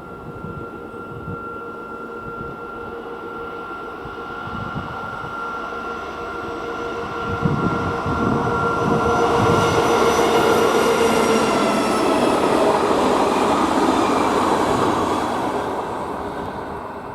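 A train approaching and passing close by, loudest about two-thirds of the way through, then fading as it moves away. Steady whining tones from its drive glide slightly lower in pitch as it goes past.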